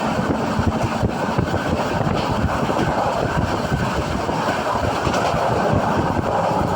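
Passenger train running on the track: a steady rumble of wheels and carriage, heard from inside the coach.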